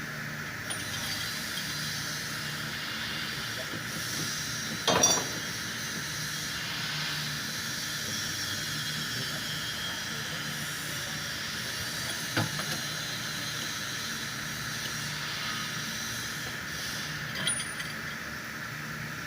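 Steady mechanical hum and hiss, broken three times by a brief metallic clink.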